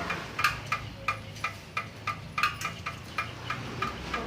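Steady, even ticking, about four sharp ticks a second, over a faint low hum.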